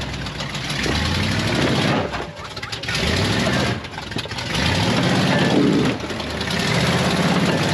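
Off-road 4x4's engine revving in four surges, each rising in pitch and then easing off, as the rig works its way over rocks.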